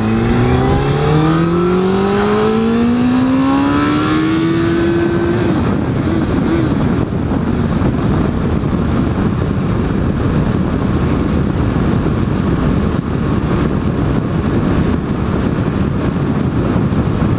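600cc sport bike engine revving up as the bike accelerates, its pitch rising steadily for about five seconds. After that it levels off into a steady rush of wind and road noise at cruising speed.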